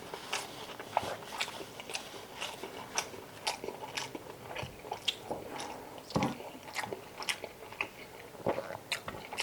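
A person eating chicken adobo: irregular wet mouth clicks and smacks of chewing, several a second, with a few louder smacks about six and eight and a half seconds in.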